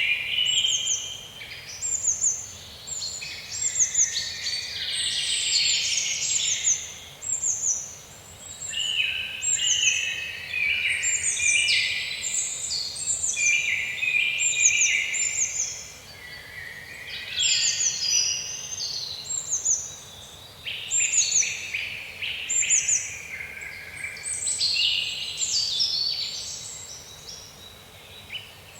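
Birds singing: several birds chirping at once, with many short high notes that fall in pitch, repeated over and over, against lower warbling chirps.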